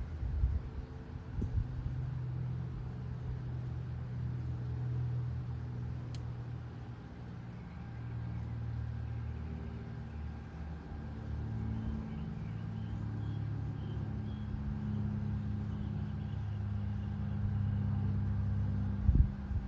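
Steady low engine hum, like a vehicle idling, with a few thumps near the start and near the end. Faint high chirps come and go in the second half.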